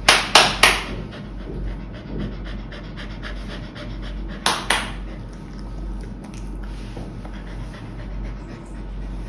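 Dog panting steadily, a quick even rhythm of breaths. Three short, loud bursts of noise come right at the start and two more about four and a half seconds in.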